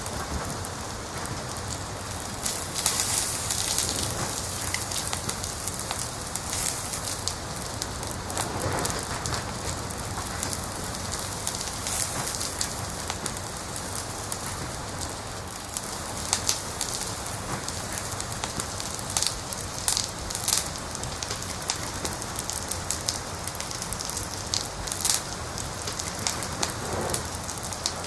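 Wood fire crackling: a steady hiss with sharp pops and snaps scattered every few seconds.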